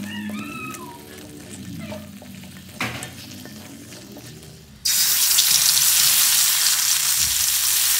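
A silicone spatula stirring fish in thick sauce in a wok, quietly, with a sharp clack about three seconds in. About five seconds in, this cuts abruptly to loud, steady sizzling: spice paste frying in hot oil in the wok.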